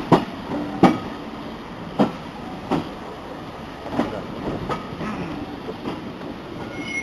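Railway carriage wheels clattering over rail joints: sharp clicks in pairs, about one pair every two seconds, over a steady rolling rumble.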